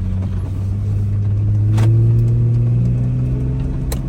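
A vehicle's engine running as it drives off, its low hum rising slightly in pitch as it picks up speed and then holding steady, with a couple of faint clicks.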